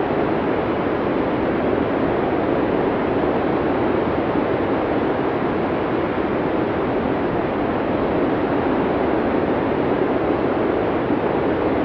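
Blizzard wind from a sound-effects recording: a steady, even rush of wind noise, heaviest in the low-middle range, with no gusts rising or falling.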